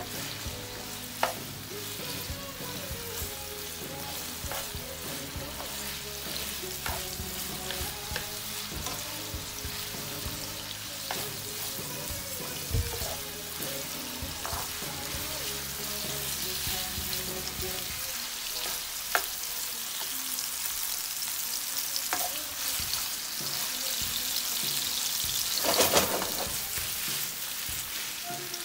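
Pork pieces sizzling in hot oil in a non-stick frying pan, stirred with a spatula that scrapes and taps against the pan now and then. The sizzle grows a little louder as the meat cooks through.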